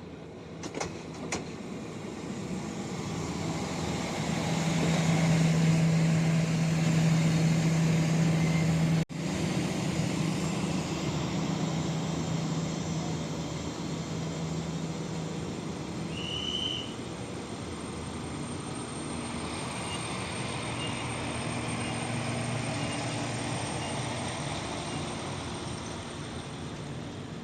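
Diesel-hauled passenger train running along the track, heard from an open carriage window: steady wheel-on-rail running noise with a low hum, growing louder over the first few seconds, with a few sharp clicks about a second in.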